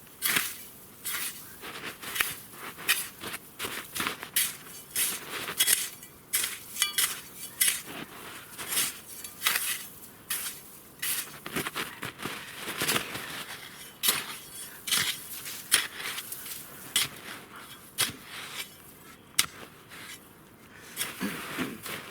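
Small steel sapper's shovel digging into deep snow, repeated crunching scoops with a metallic scrape, about one or two a second, pausing briefly near the end.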